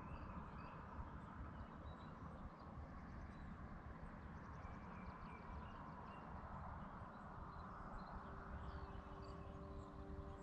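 Faint birdsong at dawn: scattered short chirps and a brief quick trill over a steady low background hiss. A soft held musical drone comes in about three-quarters of the way through.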